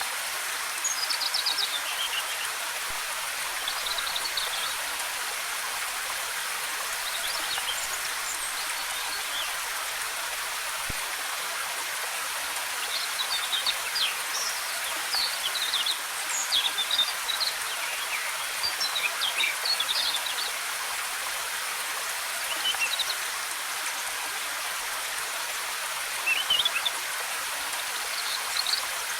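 Steady rush of a waterfall with small forest birds chirping on and off over it, the calls coming thickest in the middle.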